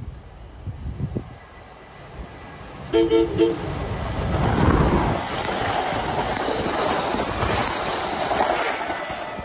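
NJ Transit Arrow III electric multiple-unit train sounding a quick burst of short horn toots about three seconds in, then rolling past close by, its wheel and motor rumble building and staying loud.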